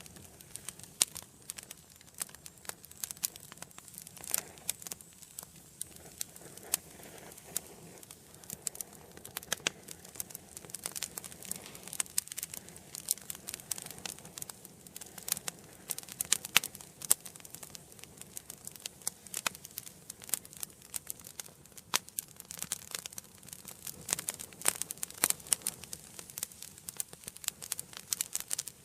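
Wood fire burning in a fireplace: irregular sharp crackles and pops over a soft steady hiss of the flames.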